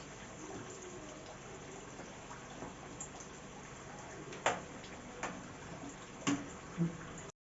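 Samosas frying in hot oil, a faint steady sizzle, with a few sharp clicks and soft knocks in the second half. The sound cuts off abruptly just before the end.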